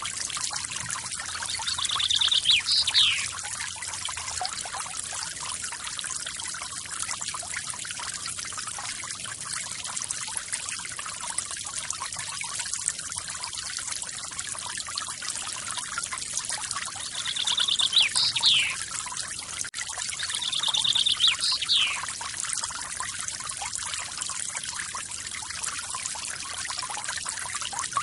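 Steady splashing of a small forest waterfall. A bird calls three times over it: once early, then twice close together later on. Each call is a short quick trill ending in a sharp falling note.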